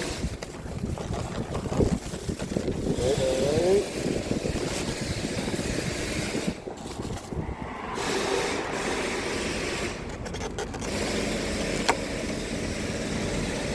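Outdoor street background: a steady rumble of passing traffic and wind on the microphone, with one sharp click near the end.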